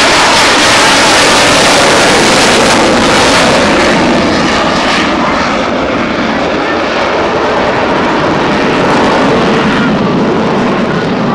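A military aircraft's engine in a low pass, loud and dense, strongest over the first five seconds and then easing off with the high end fading as it moves away.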